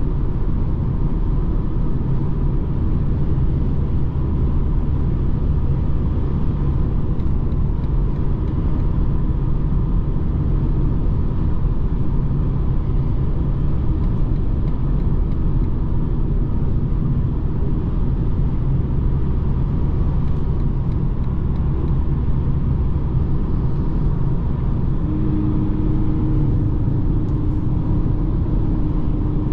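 A BMW 220d xDrive Gran Coupe with a four-cylinder diesel, driving with a steady low rumble of engine and road noise. About three-quarters of the way through, a steady humming tone rises out of the rumble.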